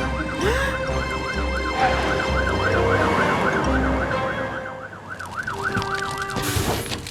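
Cartoon fire-truck siren wailing, its pitch rising and falling quickly about three times a second, over a low rumble, then cutting off near the end.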